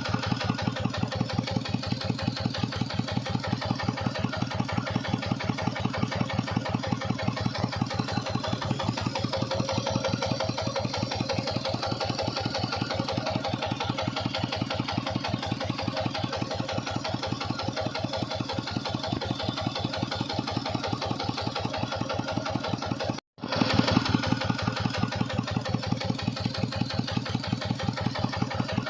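Tractor engine running steadily under load driving a water pump, a fast, even train of thumps. The sound drops out for a moment about 23 seconds in, then resumes.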